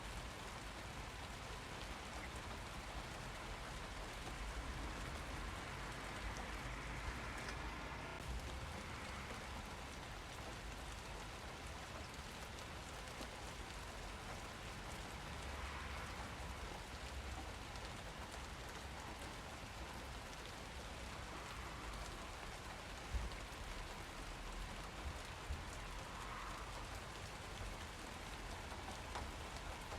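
Steady rain falling, an even patter of drops with a few sharper taps after the middle.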